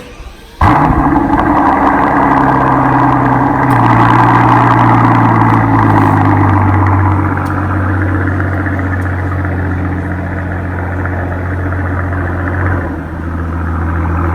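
Mercedes-AMG S65's twin-turbo V12 bursting into life about half a second in, then running at a fast idle that steps down lower over the next several seconds as it settles.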